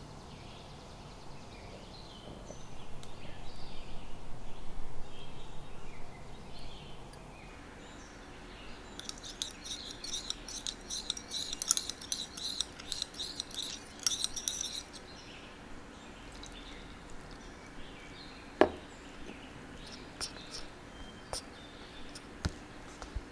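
A kitchen utensil clinking against a bowl, first in a quick run of strokes as ingredients are stirred, then one ringing tap about two-thirds of the way in and a few light clicks. Birds chirp faintly in the background.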